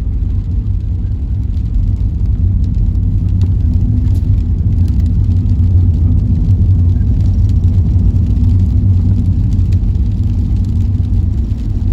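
Steady low rumble of a car in motion, heard from inside the cabin: engine and tyre noise at an even speed.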